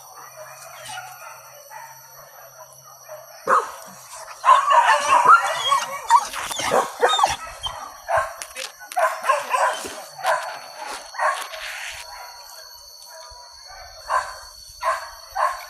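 Hunting dogs barking in short repeated bursts, loudest and most crowded from about four to seven seconds in, then in separate barks.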